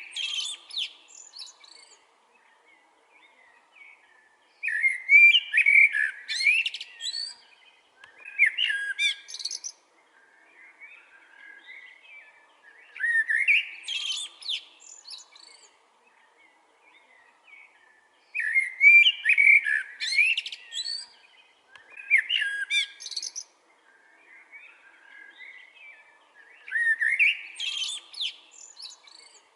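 Eurasian blackbird singing in separate phrases, about seven of them, each a warbled run of notes rising into a high, thin twitter, with short pauses between.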